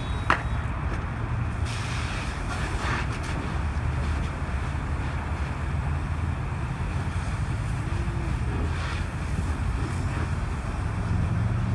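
Steady low rumble of idling vehicle engines and roadside traffic, with wind buffeting the microphone. There is a single sharp pop about a third of a second in.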